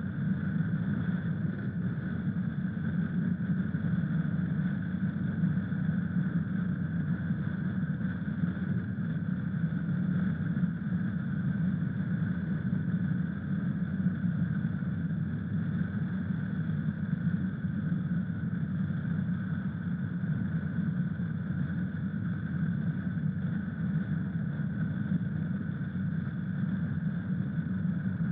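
Honda Africa Twin's parallel-twin engine running steadily, its low, even drone holding one unchanging pitch and level throughout.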